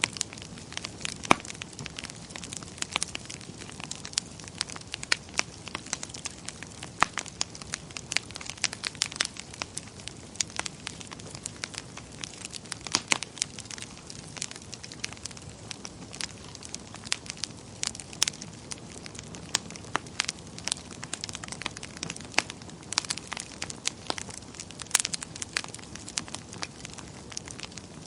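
Wood fire burning in a fireplace, crackling with many sharp, irregular pops and snaps over a soft steady hiss.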